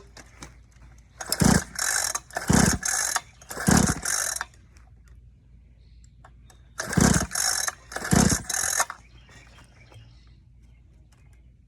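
Dirt bike engine being cranked over in short strokes without catching: three attempts in quick succession, a pause, then two more. Each stroke is a low thump followed by a mechanical rattle.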